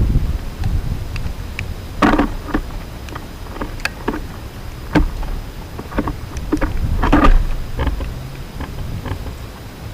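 Wind buffeting the microphone as a low rumble, with scattered sharp clicks and knocks and two louder clattering bursts about two and seven seconds in.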